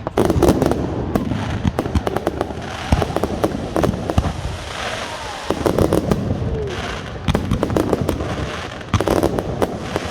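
Fireworks going off: a rapid series of bangs and crackles in clusters, with a low rumble under them.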